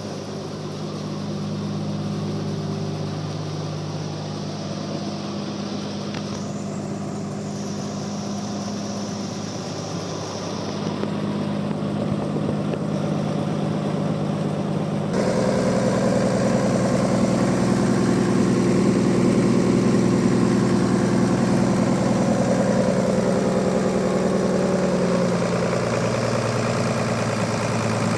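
Band sawmill machinery running with a steady engine hum. About halfway through the sound abruptly becomes louder and busier.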